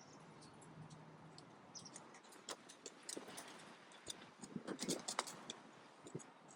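Scattered light ticks and taps of raindrops over a faint steady hiss of rain. The ticks are irregular and come thickest about five seconds in.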